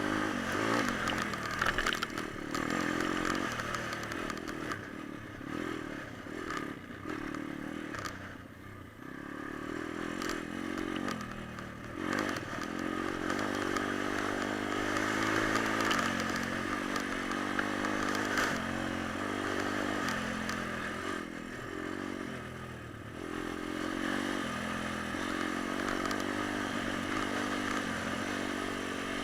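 Pit bike engine running, its revs rising and falling again and again, with some clattering and scraping noise, and a lull about eight seconds in.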